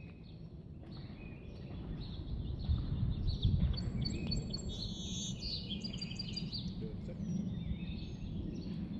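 Songbirds chirping over a steady low outdoor rumble, with a quick run of repeated high chirps in the middle.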